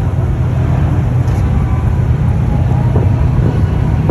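Deep, steady rumble of car engines, without any clear revving.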